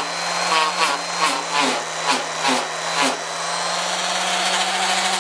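Electric power sander running on the door's metal panel, pulsing about twice a second for the first three seconds, then running steadier.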